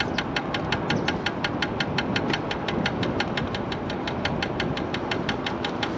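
Regular ticking knock from the front wheel of a MiniPro Mi716 electric scooter while riding, about five or six clicks a second over road and wind rumble. The rider takes it for something, like a cable, striking under the front fender as the wheel turns.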